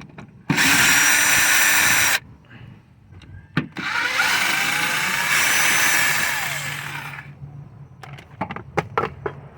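Cordless power tool spinning out two 10mm bolts from a plastic cover, two separate runs, the second winding down gradually, followed by several sharp metallic clicks as the bolts and tool are handled.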